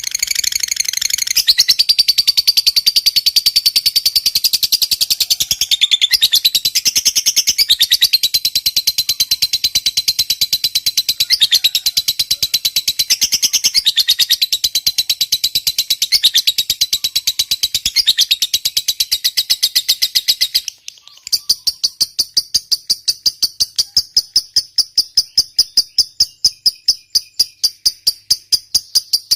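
Lovebird's long 'ngekek' chatter: a rapid, unbroken run of high, rattling chirps lasting about twenty seconds. After a brief break it changes to a slower, evenly pulsed chirping of about four pulses a second.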